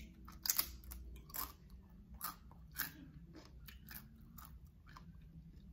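Close-up crunching and chewing of a greasy tortilla chip: a run of sharp crunches in the first three seconds, easing into softer chewing.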